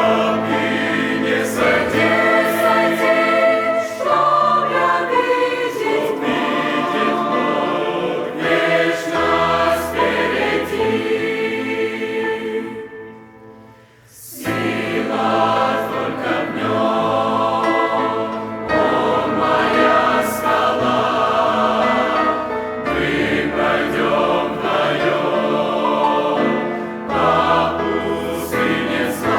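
Church choir singing a hymn in Russian. The singing breaks off briefly about halfway through, then the next phrase begins.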